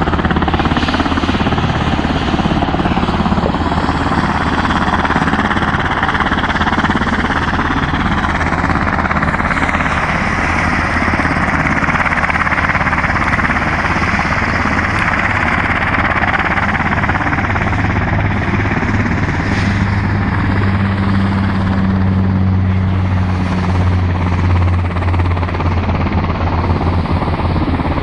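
H-60L Black Hawk helicopter running steadily, its turbines and rotor making a continuous loud noise. A low hum in it grows stronger over roughly the last third.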